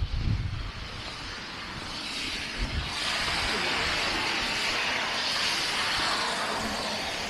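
A vehicle passing on a snowy street, its tyre hiss swelling from about two seconds in and holding until near the end. Wind buffets the microphone at the start.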